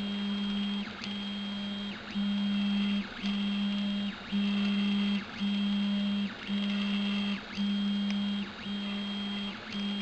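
Stepper motors of a Prusa i3-type 3D printer whining through a series of moves while printing: each move is a steady tone about a second long, with brief pauses as the head changes direction.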